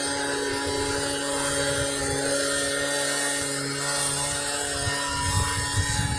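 Gas-powered leaf blower running steadily at a constant speed, with a low uneven buffeting near the end.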